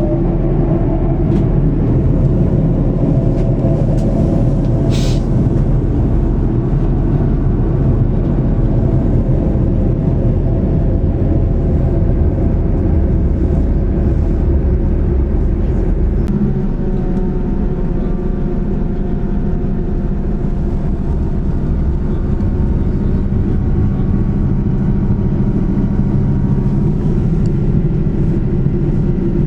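Diesel multiple-unit train running: a steady low rumble with engine tones that shift in pitch about halfway through.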